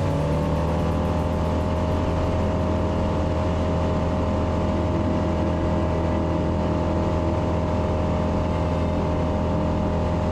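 Savannah ultralight's propeller engine running steadily at high power, its pitch rising slightly at first and then holding steady.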